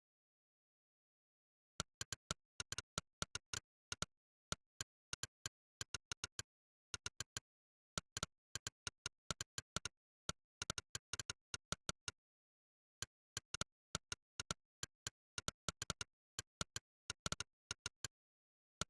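Monkeytype's 'click' keystroke sound effect: a short, sharp click for each key typed, coming in quick bursts word by word with brief pauses between them and dead silence in the gaps. It starts about two seconds in and pauses for about a second just past the middle.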